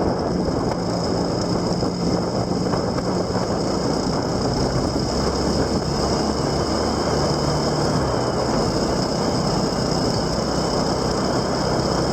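Steady rush of wind and road noise from a vehicle on the move, with a low engine hum underneath that shifts pitch about eight seconds in.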